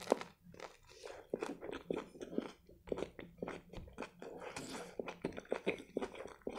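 A bite into a grilled turkey shawarma wrap right at the start, then steady open-mouthed chewing with irregular wet clicks and light crunching of the toasted lavash.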